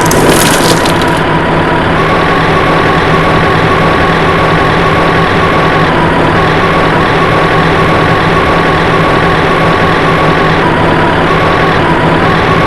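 Vehicle engine sound running steadily with a constant low hum, opening with a brief crackle in the first second.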